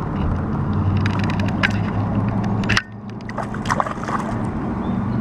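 Water and handling noise aboard a kayak: a low steady hum with scattered sharp clicks. It breaks off abruptly about three seconds in, then resumes.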